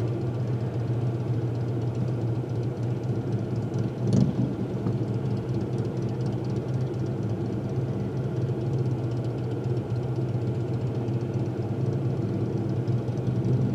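Steady low hum of a car's engine and road noise heard from inside the cabin while driving slowly, with one brief click about four seconds in.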